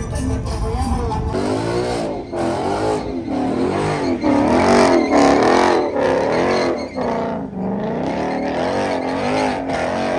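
Car tires squealing in a loud, wavering, up-and-down howl, as a car spins its wheels or does donuts, starting about a second in after a deep rumble.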